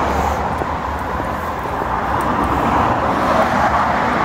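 Steady road traffic noise: a continuous hiss and rumble of passing cars with no single vehicle standing out.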